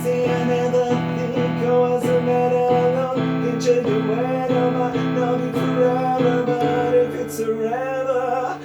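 Music: acoustic guitar strummed in a steady rhythm of about two strokes a second, with a held melody line above it. Near the end the strumming gives way to sustained chords.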